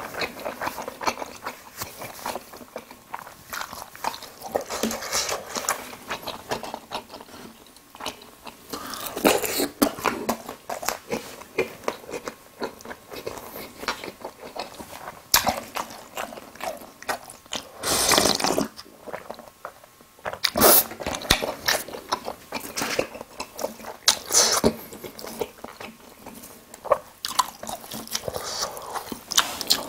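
Close-miked chewing of a mouthful of food, with crisp crunching bites of fried sweet-and-sour pork (tangsuyuk) and wet mouth sounds as many short clicks and crackles. A louder, longer noisy sound comes about eighteen seconds in.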